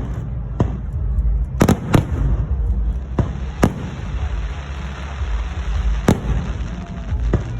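Fireworks going off in sharp, irregular bangs, about eight of them, some in quick pairs, over a steady low rumble.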